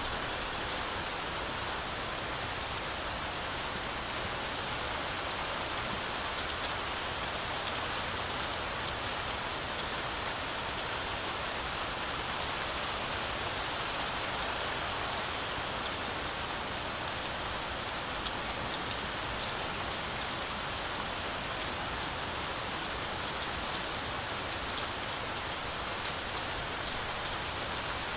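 Heavy rain falling steadily through a forest canopy, an even hiss dense with fine drop patter.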